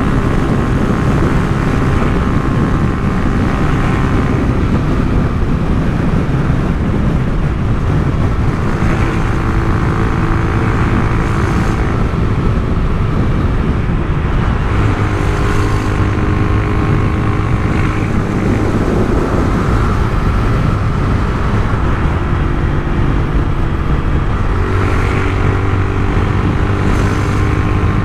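Honda CG 150 Titan's single-cylinder four-stroke engine running through a Turuna aftermarket exhaust on the move, over wind and road noise. The engine note holds steady for stretches and shifts in pitch several times.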